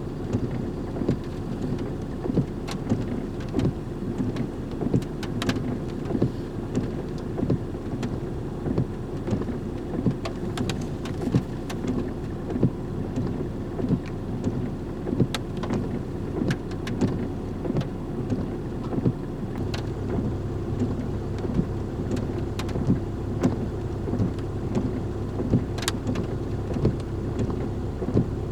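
Toyota Land Cruiser running steadily on a rough forest road, a low engine hum with frequent light taps and knocks over it. About two-thirds of the way in, the low rumble grows deeper and heavier.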